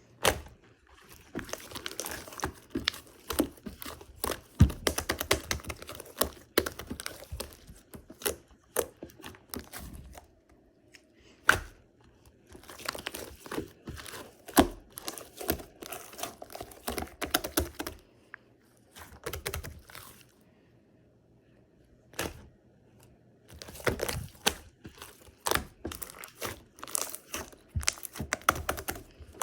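Hands squishing, stretching and pressing slime: irregular sharp clicks and pops with stretches of crackling, easing off to a quieter pause past the middle before picking up again.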